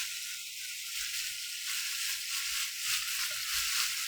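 Thinly sliced pork belly sizzling in a hot oiled frying pan, a steady hiss.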